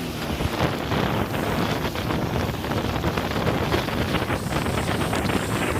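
Wind rushing and buffeting over the microphone on a moving jet ski, with the watercraft's engine and water spray underneath.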